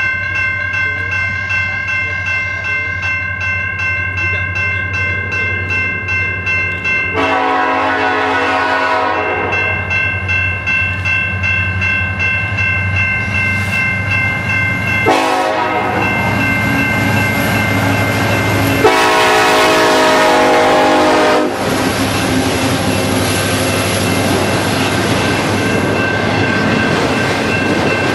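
Norfolk Southern freight train passing with its diesel locomotive's air horn sounding: a long blast, a short blast and a final long blast over the steady rumble of the train.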